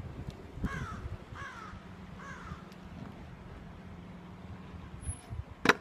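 A bird calling three times in the first couple of seconds, each call falling in pitch, then a single sharp knock near the end.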